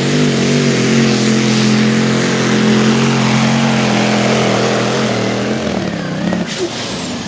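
Diesel 4x4 pulling truck's engine running hard at high revs under load, then backing off about six seconds in; near the end a high whine falls steadily in pitch.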